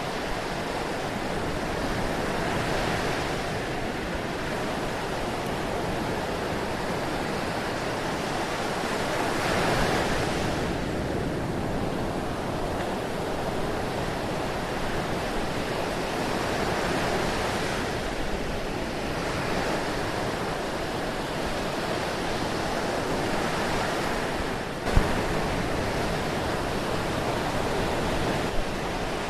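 Ocean surf washing in continuously, the rush swelling about every seven seconds as each wave breaks. A sharp click breaks in near the end.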